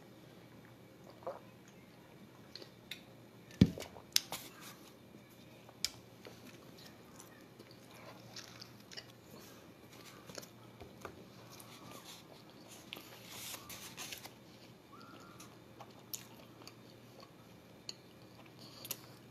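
A person chewing and biting into a fried chicken sandwich, with faint crunches and mouth noises scattered through. A single sharp thump about three and a half seconds in.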